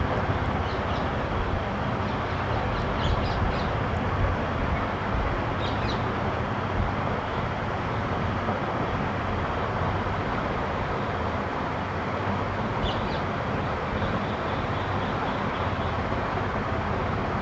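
Steady outdoor background noise, an even rumble and hiss, with a few faint, short, high bird chirps about 1, 3, 6 and 13 seconds in.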